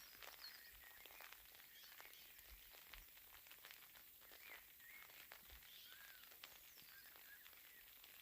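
Faint birdsong: short chirps and whistles from several birds, with a light patter of raindrops.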